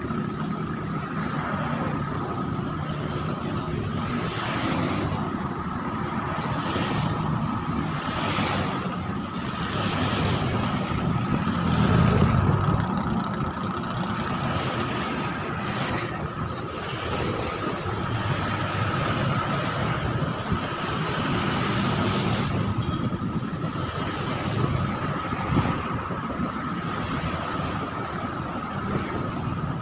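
Steady low engine rumble with wind noise on the microphone and a faint steady whine, swelling briefly about twelve seconds in.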